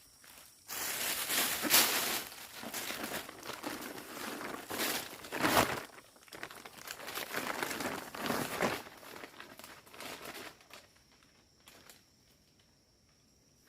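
Crinkling and rustling of plastic being handled and crumpled, in irregular bursts for about ten seconds, then quiet.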